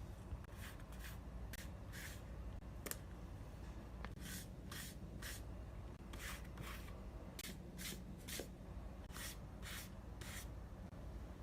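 Paper-crafting sounds while making a notepad: a run of short hissing strokes, irregularly spaced with brief pauses, over a faint steady hum.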